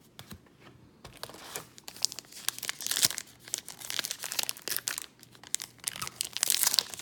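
A trading-card pack wrapper being torn open and crinkled in the hands, a dense crackle that starts about a second in and swells twice.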